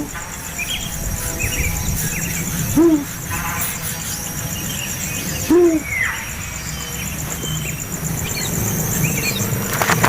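A bird's low, hoot-like call, short and arched in pitch, given three times about three seconds apart. Scattered small, high chirps and a steady high insect buzz run underneath.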